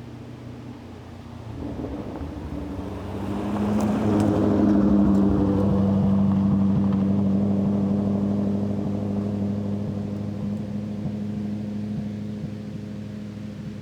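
Lexus SC400 drift car's engine and exhaust droning at a steady cruising pitch while driving. It grows louder a few seconds in and then eases off slowly.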